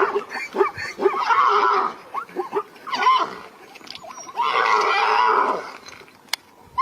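Animal calls: a run of short pitched cries, with two longer harsh calls, one about a second in and one past the middle, and a single sharp click near the end.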